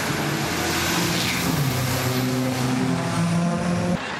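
Car engine running under throttle, its pitch dropping about a second and a half in and then climbing again as it revs. The sound cuts off abruptly near the end.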